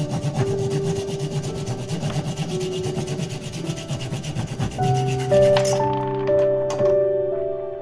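Saw cutting through wood in quick, even strokes, a dense rasping scrape that stops about three quarters of the way through, with soft sustained music notes underneath.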